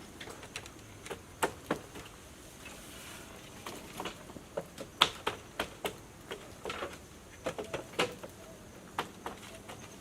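Irregular light knocks and clicks, a couple of dozen scattered unevenly, with the sharpest about halfway through and again near eight seconds.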